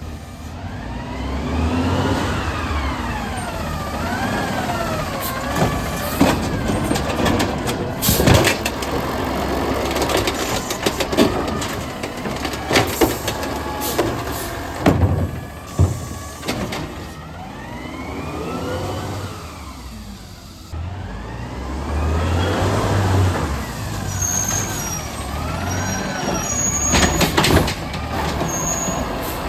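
Garbage truck working at the curb: its engine revs up and down again and again, broken by loud metallic clanks and bangs.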